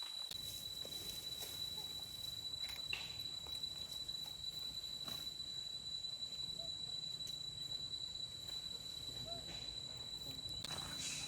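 Rainforest insects calling: one steady, high, unbroken tone, with a fainter, higher hiss of other insects above it. A few faint scattered ticks and rustles come through underneath.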